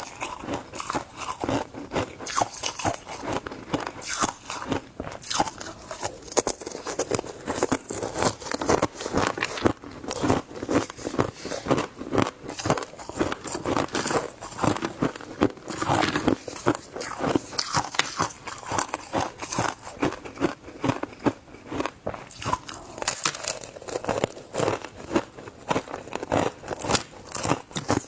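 Close-up crunching of shaved ice between the teeth: a dense, irregular run of sharp crunches, several a second, as the ice is bitten and chewed.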